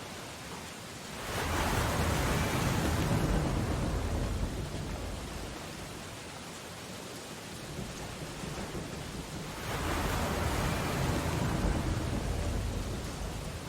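Steady rain on window glass under the rush of a stormy sea, with two heavy ocean waves crashing: one about a second in and one near the end, each a swelling rush that fades over a few seconds.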